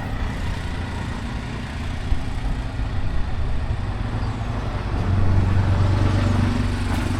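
A motor vehicle's engine running, with a low hum that grows louder about five seconds in.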